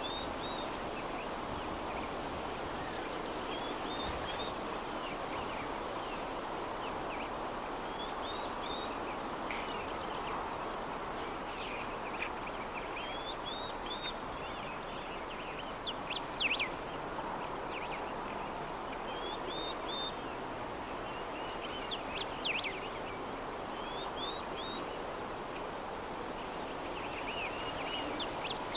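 Soft, steady breeze with small birds chirping now and then in short high calls; two louder calls stand out, one just past the middle and one later.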